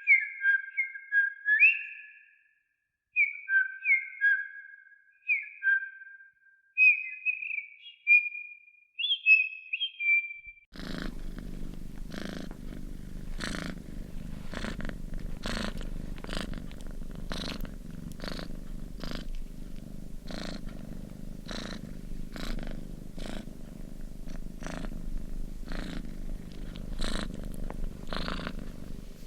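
Short two-note whistled chirps in little groups for about the first ten seconds, then a domestic cat purring steadily, the purr pulsing in regular strokes with each breath.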